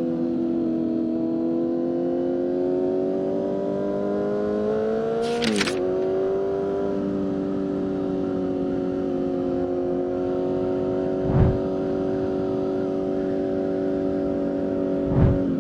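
2023 Kawasaki Z900's inline-four engine through a full Leo Vince exhaust, pulling with its pitch slowly rising. About five seconds in, an upshift drops the pitch with a brief sharp noise. It then runs at steady revs, with two short dull thumps in the second half.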